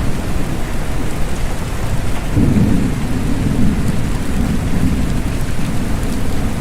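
Steady rain falling, with a low rumble of thunder that swells about two seconds in and rolls on.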